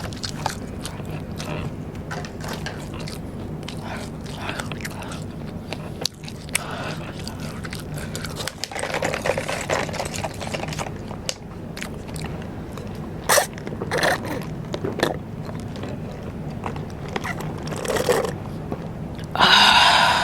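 Close-miked eating of rice paper snacks (bánh tráng): crunchy bites and wet chewing clicks over a steady low hum, with a louder crunching or rustling burst near the end.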